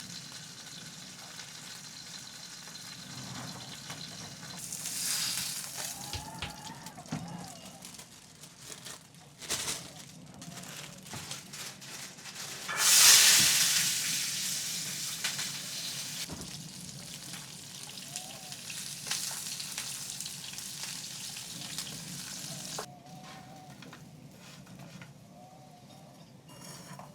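Food frying in hot oil in a pan, a steady sizzle with small pops. About halfway through the sizzle suddenly grows much louder, then eases off, and it quietens sharply near the end.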